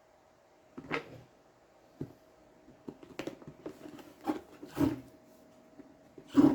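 Handling noises from unboxing a mop and spin-bucket set: a series of irregular knocks, thuds and scrapes about a second apart, the loudest near the end, over a faint steady hum.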